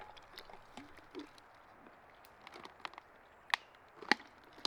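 Quiet outdoor background with a few faint small sounds, then three sharp clicks or knocks in the second half, about half a second apart.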